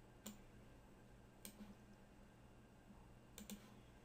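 Faint computer mouse clicks over near-silent room tone with a low steady hum: single clicks about a quarter second in and about a second and a half in, then two in quick succession near the end.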